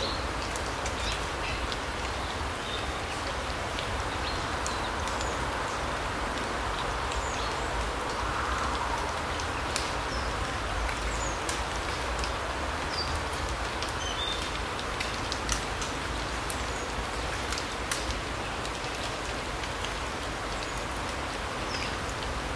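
Forest ambience: a steady hiss with scattered light ticks and brief, high bird chirps now and then.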